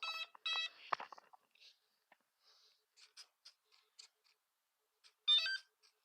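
RC plane's electronic speed controller beeping its power-up tones after the flight battery is plugged in: two short multi-tone beeps at the start and another quick burst of beeps near the end. Faint scattered clicks in between come as the SAFE receiver twitches the servos during its start-up wiggle of the control surfaces.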